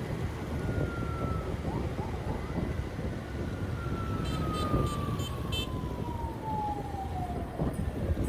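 Street traffic noise, with a siren-like tone near the middle that falls steadily in pitch for about four seconds, and a quick run of high ticks partway through.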